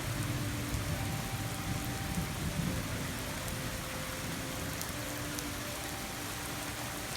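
Rain falling steadily during a thunderstorm.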